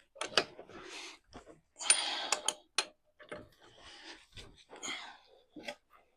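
A wrench tightening the wheel nuts on a car's front wheel: a series of sharp metallic clicks with short scraping sounds between them.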